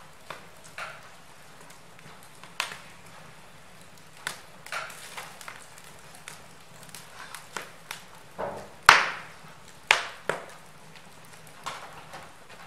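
Wood fire in a fireplace crackling, with irregular sharp pops of burning logs over a faint hiss; the loudest pops come about nine and ten seconds in.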